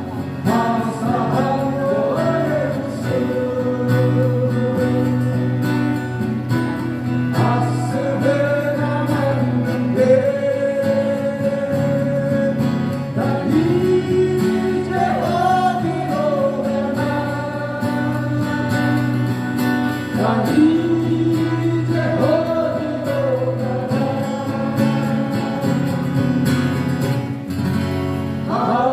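Live song: singing with acoustic guitar accompaniment, amplified through a PA system, with long held, wavering vocal notes.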